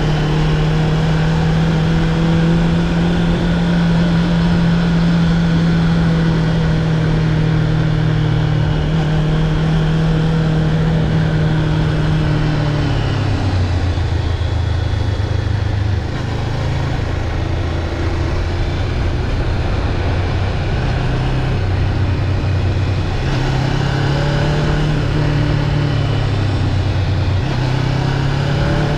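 Honda CB500X's parallel-twin engine running at a steady cruising pitch under a constant rush of wind and road noise. About halfway through the revs fall to a lower pitch, then rise and drop back again near the end.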